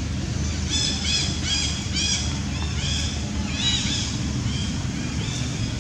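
A monkey giving a quick series of about eight short, high-pitched squeals, each rising and falling, over a steady low rumble.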